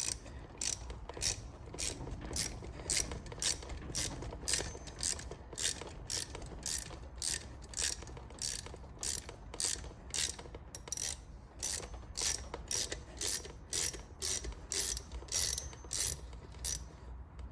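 Ratchet wrench clicking in steady, even strokes, about two clicks a second, as it is worked in reverse to back off a valve spring compressor and release the compressed valve spring onto its keepers. The clicking stops near the end.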